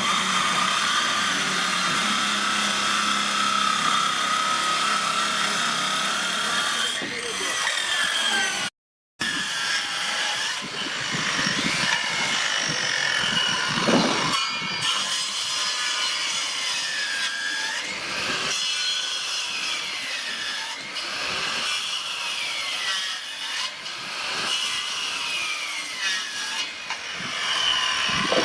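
A power tool working wood. Its motor runs with a steady whine at first; after a short break the pitch dips and recovers about every two seconds as the tool takes each cut under load.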